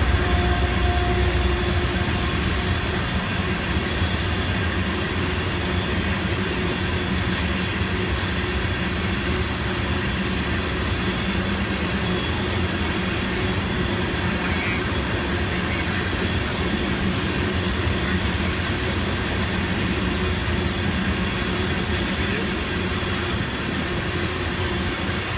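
Freight train of tank cars rolling past at close range: a steady rumble and clatter of steel wheels on the rails.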